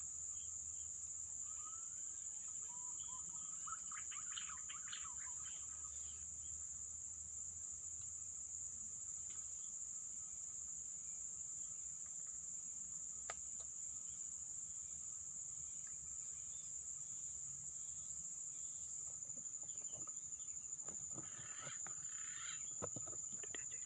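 Steady high-pitched drone of crickets, with a few short bird chirps in the first few seconds and a single sharp click about halfway through.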